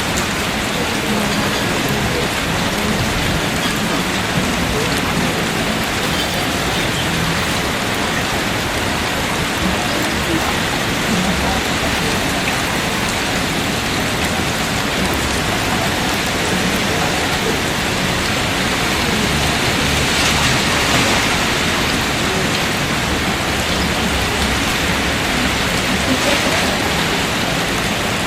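Heavy rain falling steadily, an even dense hiss that swells a little about twenty seconds in.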